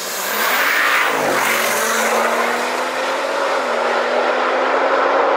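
Audi RS7 and BMW 440i launching together from a standing start at full throttle in a street drag race. The engine note climbs steeply as they pull away, then holds a hard, steady pull, dropping in pitch at upshifts about a second in and again nearer four seconds in.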